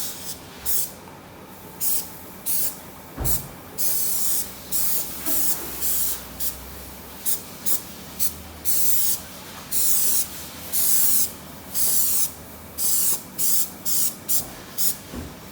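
Aerosol spray paint can hissing in many short, irregular squirts, a few of them held for about a second, with a dull low thump about three seconds in.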